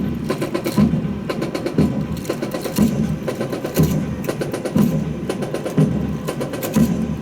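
A rifle drill team beating out percussion with their rifles in unison: sharp wooden clacks of rifle handling, with a heavier thump about once a second and quicker clicks between.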